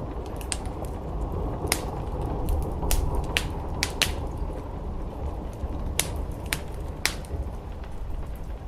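Wood fire crackling in a fireplace, with irregular sharp pops, the loudest about three and four seconds in, over a steady low rush of rain on the roof.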